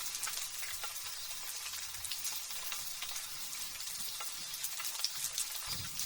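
Light drizzle pattering: a steady hiss of fine, close raindrop ticks. A low rumble comes in near the end.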